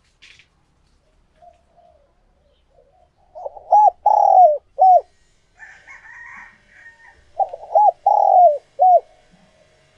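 Spotted dove cooing: two phrases about four seconds apart, each a few short coos around one longer drawn-out coo. This is a caged decoy dove's call of the kind used to lure wild doves. Faint chirps of small birds fall between the two phrases.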